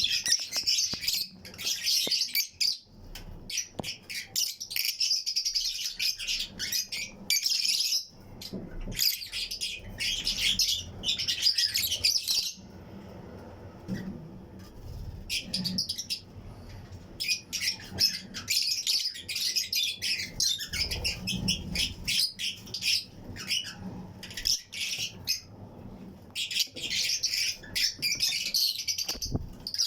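A colony of Fischer's and lutino lovebirds chirping in a flight cage: dense bursts of high, rapid chatter, with a quieter lull of a few seconds just before the middle.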